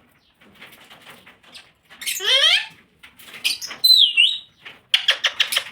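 Pet parrot calling and chattering: a drawn-out rising call about two seconds in, a high whistle that dips and comes back up, then a rapid run of clicking chatter near the end.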